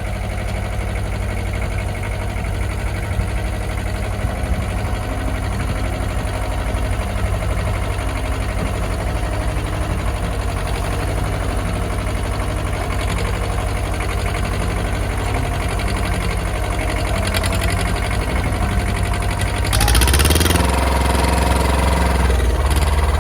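Ford 1700 compact tractor's diesel engine running steadily, becoming louder and heavier about 20 seconds in as the loader takes up load trying to lift a heavy saw log on pallet forks.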